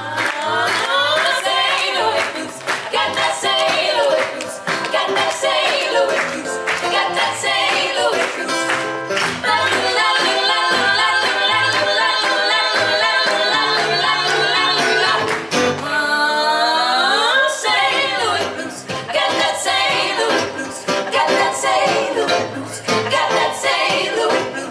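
Live blues: female voices singing in close harmony over bass and hand percussion. About sixteen seconds in, the voices make a sweeping slide in pitch.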